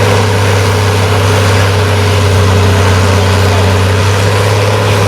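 Farm-stock diesel tractor engine running hard at full throttle, holding a steady pitch while it pulls the weighted sled.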